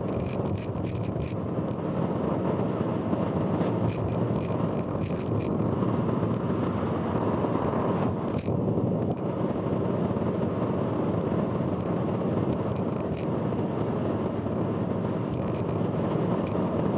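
Steady road and engine noise of a car driving on an expressway, heard from inside, with several clusters of short sharp ticks over it.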